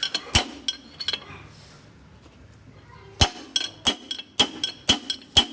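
Hammer blows on steel, each a sharp ringing clink. There are three near the start, then a pause of about two seconds, then a quicker run of about seven or eight.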